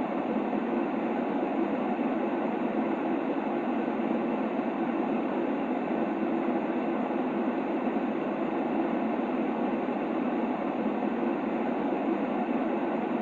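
Steady white noise for soothing a baby: an even, unchanging hiss weighted toward the low-middle range, with no rhythm, breaks or other sounds.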